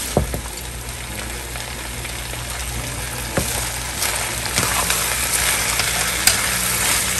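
Pea shoots sizzling as they go into hot oil and garlic in a nonstick frying pan, the sizzle growing fuller from about three seconds in. A few sharp knocks of a wooden utensil against the pan.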